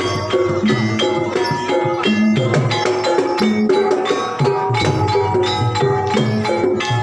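Banyumasan gamelan music accompanying an ebeg horse-trance dance: tuned struck percussion ringing out short notes over low drum strokes, in a quick, steady rhythm.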